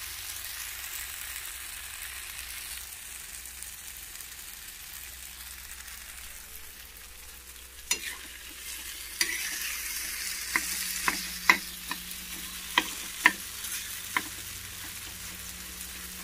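Spiced mashed aubergine (vangyache bharit) sizzling steadily in a frying pan on a gas stove as it is stirred with a spatula. In the second half, the spatula knocks and scrapes sharply against the pan several times.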